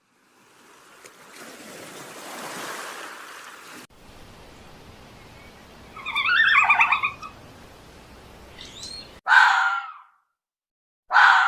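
Animal calls: a bird's quick chattering chirps about halfway through, then two short, loud, harsh calls near the end, after a stretch of breathy hiss.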